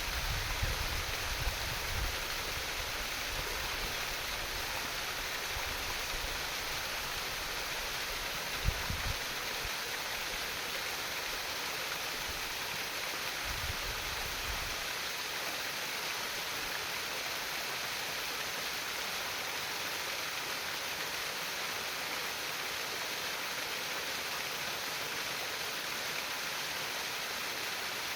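Flowing stream water trickling and babbling in a steady, even rush. A few brief low thuds come in the first half, the clearest a little under nine seconds in.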